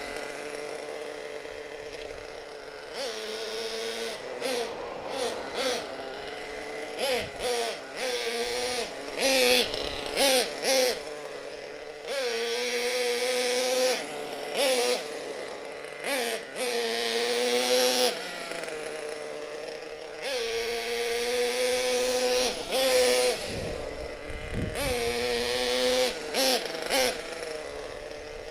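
Single small nitro engine of a twin-engine RC monster truck running very rich, its pitch rising and falling with repeated short throttle blips between steadier low-speed running.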